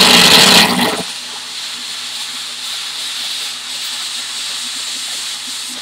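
Plasma cutter cutting aluminum plate: a loud burst for about the first second as the arc starts and pierces, then a steady hiss of the cutting arc and air that cuts off suddenly near the end.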